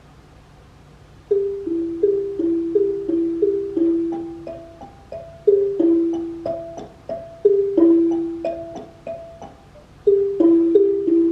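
Xylophone played in two-note falling "cuckoo" calls, starting about a second in. The low pairs are the mama cuckoo bird and the higher pairs partway through are the baby cuckoo bird.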